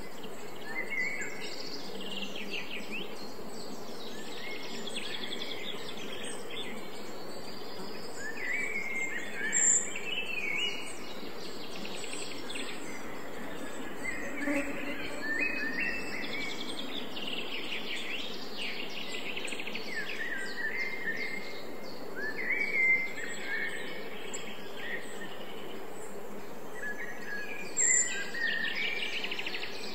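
Songbirds singing in short repeated chirping phrases over a steady background hiss, with a few louder sharp high chirps.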